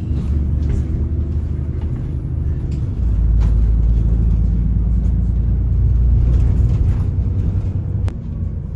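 Bus engine and road rumble heard from inside a moving bus. The low drone swells about three seconds in and eases back near the end.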